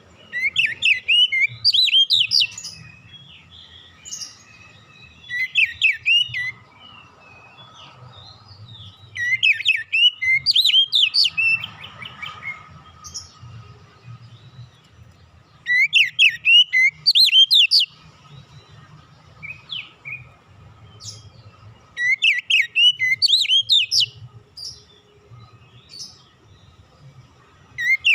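Oriental magpie-robin (kacer) singing: five phrases of quick up-and-down whistled notes, each about one to two seconds long and several seconds apart, with another phrase starting at the very end.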